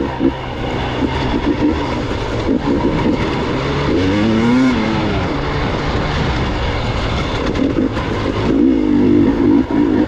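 Gas Gas EX 300 two-stroke enduro motorcycle engine running on a trail, revving up and back down about four to five seconds in, with quicker throttle changes near the end.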